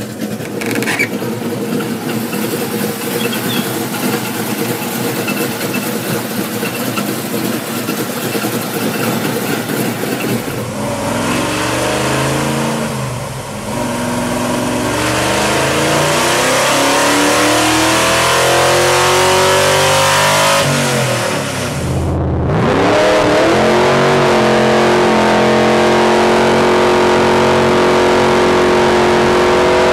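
Classic muscle car engines running and revving across several clips. First comes a rough, steady run. About a third of the way in, a different engine revs up and down. After a brief break it is held at high revs, its pitch creeping slowly upward.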